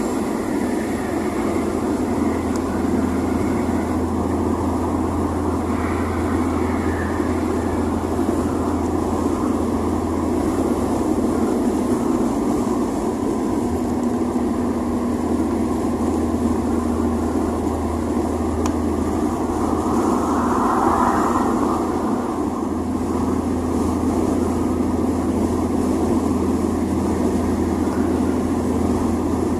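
A 1987 VW Voyage's AP 1.6 four-cylinder engine running at a steady, fairly high speed with road noise, as when cruising. It gives a steady low drone with a brief swell about twenty seconds in.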